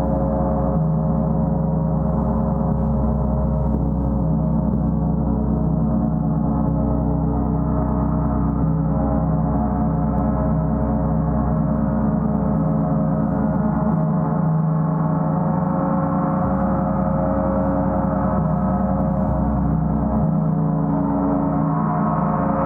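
A gong played continuously, its many overlapping tones sustaining in a dense, steady shimmering drone with a deep low hum beneath.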